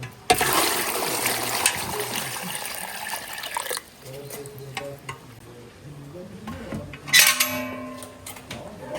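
Water running or pouring for about three and a half seconds, then a metal dish clanks once with a short ring about seven seconds in: kitchen washing-up or cooking sounds.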